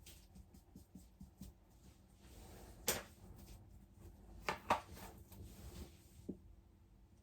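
A few sharp clicks and light knocks of small hard objects being handled: one about three seconds in, a quick pair a little after four and a half seconds, and a duller knock past six seconds, among faint ticks.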